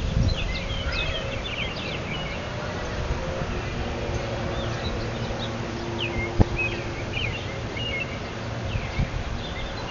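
Small birds chirping repeatedly over a low rumble and a faint steady hum, with a single sharp tap about six seconds in.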